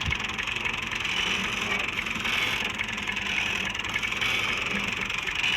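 An engine running steadily, with a continuous rattling clatter over its regular low firing pulses.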